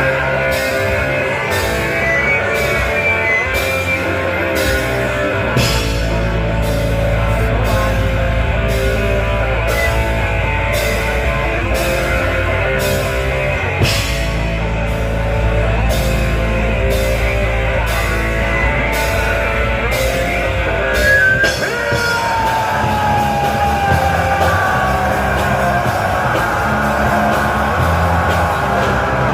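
Rock band playing live, with electric guitar over a steady drum beat.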